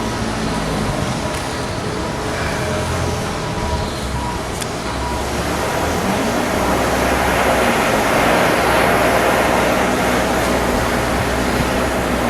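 Heavy machinery running steadily with a low hum, growing a little louder partway through.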